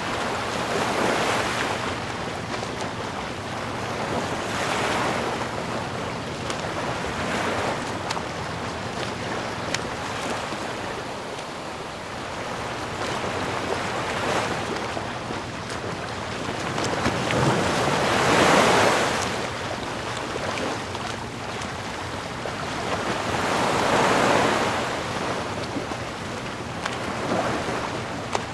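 Sea waves washing onto the shore, the surf swelling and ebbing every few seconds, with the biggest surges about two-thirds of the way through and near the end. Wind blows under the surf.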